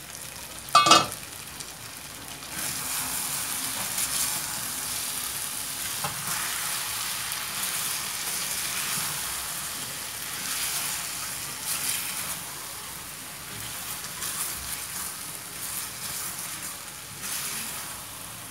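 A pan lid clanks once about a second in. Then chicken and potato curry sizzles in an aluminium pan as it is stirred with a wooden spatula, with stronger swells of sizzling as the spatula turns it over.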